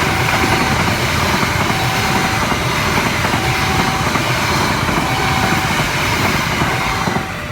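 A train passing at speed: a loud, steady rush of wheel and rail noise. Over it, a level-crossing warning signal sounds a short beep about every second and a half, five times. The rush drops off near the end.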